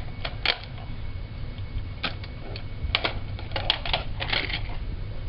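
Scattered sharp clicks and small rattles of objects being handled, coming in short clusters, over a low steady hum.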